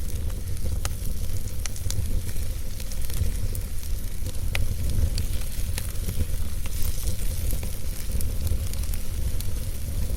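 Wood fire burning in a fireplace: a steady low rumble of flames with a hissing background and scattered sharp crackles and pops from the burning logs.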